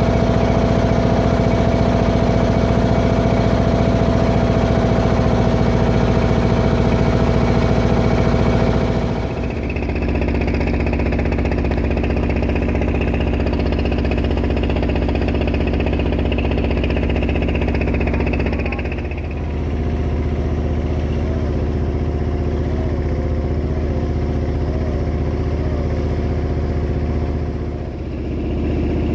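Klotok river boat's single-cylinder diesel engine running steadily, its note shifting three times with a brief dip in level.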